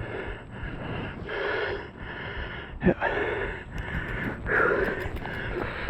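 A man breathing hard after exertion, with loud, heavy breaths about once a second. A short sharp sound cuts in about three seconds in.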